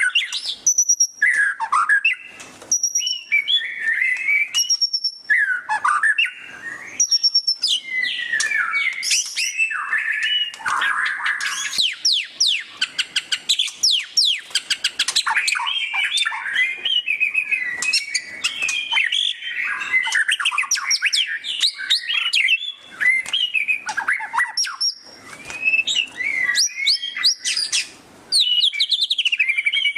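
White-rumped shama (murai batu) singing loudly and without pause, mixing whistled phrases with fast, chattering 'ngeriwik' runs. A long burst of rapid sweeping notes comes about a third of the way in.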